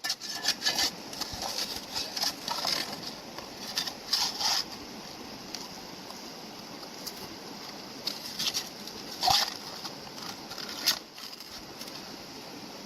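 Gravel and rocks scraping and crunching in irregular strokes, a cluster in the first few seconds and a few more later, over the steady rush of flowing river water.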